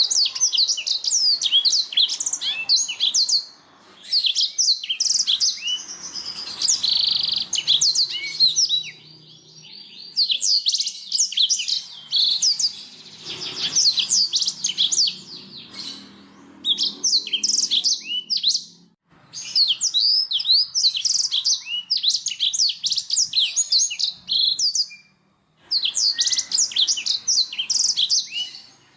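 Domestic canary singing: fast trills of rapidly repeated chirping notes, in phrases of a few seconds separated by short pauses.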